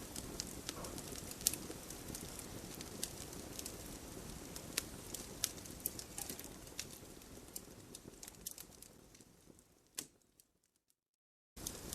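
Campfire crackling and popping with sharp snaps over a low steady rumble of burning. Near the end it fades out after one louder pop, drops to a second of complete silence, then cuts back in abruptly.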